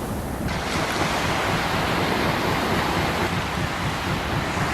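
Sea surf washing on a beach, a steady rushing hiss that grows fuller about half a second in, with wind buffeting the microphone.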